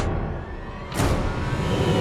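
Cartoon sound effects over background music: a low, noisy rumble that swells suddenly about a second in.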